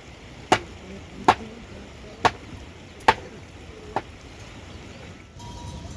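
Five sharp chopping blows, a little under one a second, the last one lighter.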